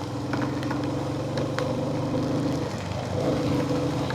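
Royal Enfield Hunter 350's single-cylinder engine running steadily while the bike is ridden. The engine note shifts briefly about three seconds in, and a few sharp ticks sound over it.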